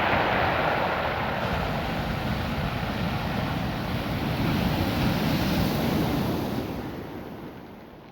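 Ocean surf washing over a beach of small rounded stones: a steady wash of water and stones that swells about halfway through and dies away near the end.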